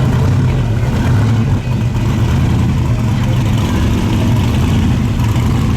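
Car engine running steadily at low revs, a deep, even rumble.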